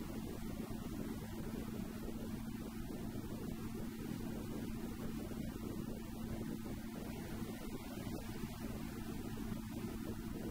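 Goggomobil's small two-stroke engine droning steadily at a constant cruising speed, heard from inside the cabin along with tyre and road noise.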